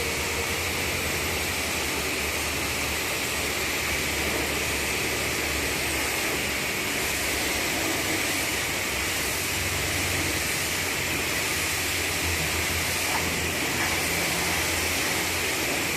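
Steady rushing hiss of truck-wash water spray, with a low engine hum underneath that does not change.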